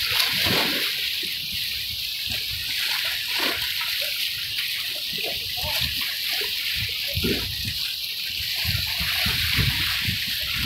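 Sea water splashing and sloshing in a steady hiss, with irregular low rumbling gusts of strong wind buffeting the microphone.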